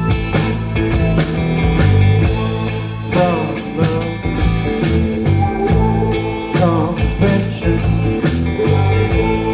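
Live rock band playing an instrumental passage, with drum kit, bass and electric violin. A wavering lead melody line comes in about three seconds in and again near seven seconds.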